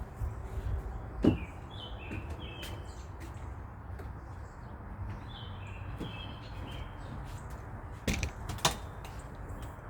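Small birds chirping in short, repeated calls over a low background rumble. There is a sharp knock about a second in and two louder knocks near the end.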